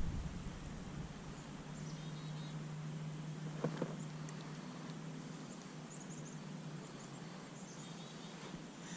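Quiet outdoor river ambience: a faint steady low hum, scattered short high chirps, and a single light tap about three and a half seconds in.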